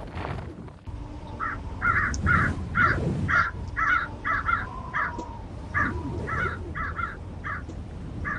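Crow cawing over and over, a string of short calls about two a second, some in quick pairs, starting about a second and a half in.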